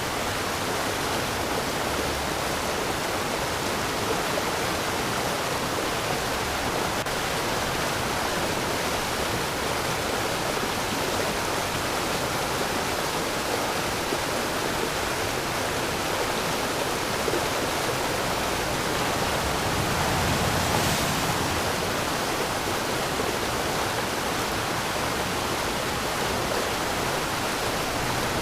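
Waterfall: a steady rush of falling water, swelling slightly about twenty seconds in.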